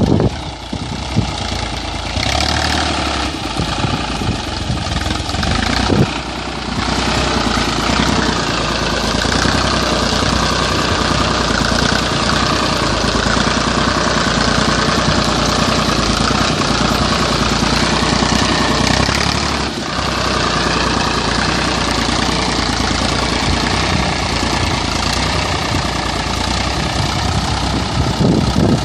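Tractor engine running steadily, with a couple of short sharp knocks in the first several seconds.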